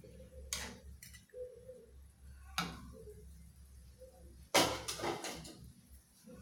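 Three separate sharp knocks or clatters over a low steady hum, the last and loudest about four and a half seconds in, lasting nearly a second.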